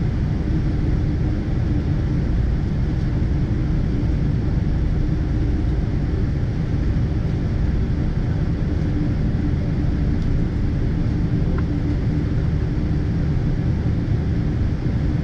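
Steady low cabin rumble inside a Boeing 777-200ER, heard from a window seat, as its Rolls-Royce Trent engines run, with a faint steady hum on top.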